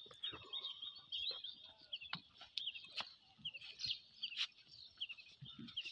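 Small birds chirping, many short high chirps in quick succession throughout, with a few sharp knocks in between.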